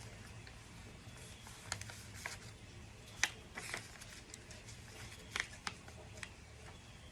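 Scattered light clicks and short rustles of small objects being handled, about a dozen at irregular intervals, over a faint low hum.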